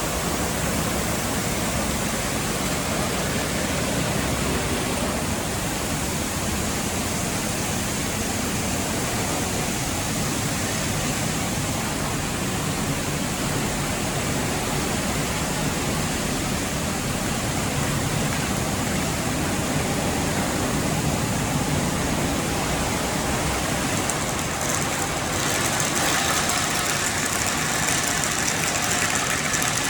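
Car wash tunnel equipment running: a steady wash of spraying water and machinery noise, with a brighter, higher hiss joining near the end.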